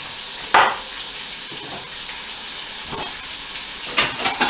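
Lamb chops and flatbread frying in pans, a steady sizzle. A sharp clack about half a second in, and a few clinks near the end as plates are taken from a cupboard.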